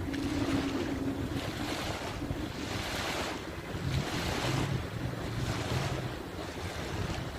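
Surf washing onto a beach in repeated swells, with wind buffeting the microphone. A low steady hum sounds for about the first second.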